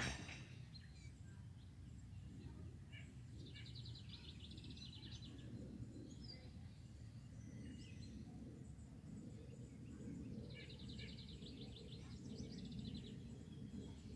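A songbird singing two rapid trills, one about three seconds in and another near the ten-second mark, over a steady low background rumble.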